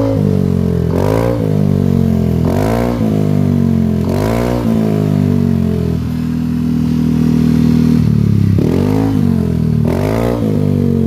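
Yamaha Aerox scooter with a WRC aftermarket exhaust, idling with a deep bass note and blipped five times in quick revs that rise and fall, with a steadier stretch of about two seconds in the middle.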